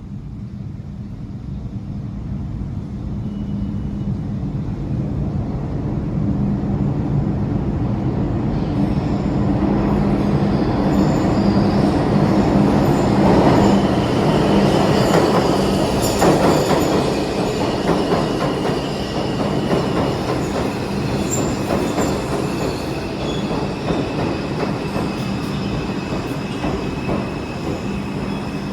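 New York City subway 2 train running into the station, getting steadily louder over about fifteen seconds, with rail clatter and a steady low hum. High-pitched wheel squeal comes in partway through and carries on to the end.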